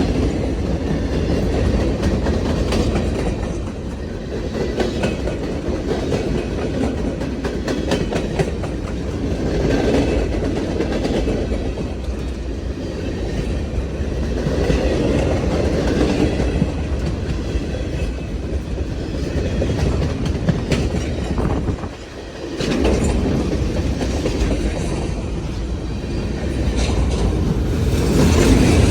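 CSX freight train cars rolling past, the wheels clicking over the rail joints with a steady rumble, dipping briefly about 22 seconds in.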